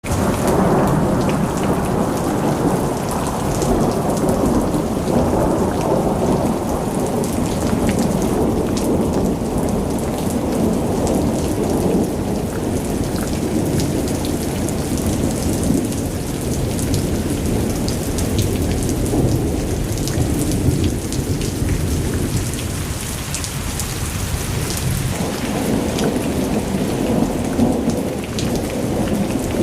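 Heavy rain falling steadily, a dense low rumbling wash with scattered sharp drop ticks on top; it eases slightly about three-quarters of the way through.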